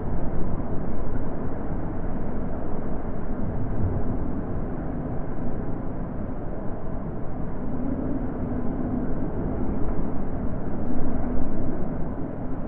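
Wind blowing steadily: a low, even rushing that swells a little past the middle.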